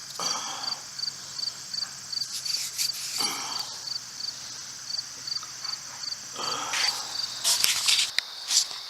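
Insects chirping steadily, a short high pulse about three times a second over a continuous high buzz, with a few short scraping noises in between.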